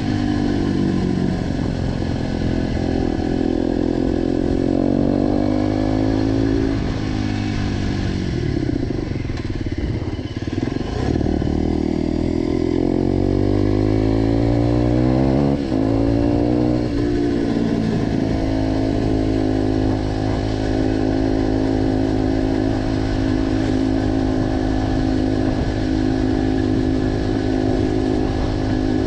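Motorcycle engine breathing through an aftermarket G.P.R. exhaust while riding. The revs climb and drop several times as it pulls through the gears, then hold at a steady pitch for the last third.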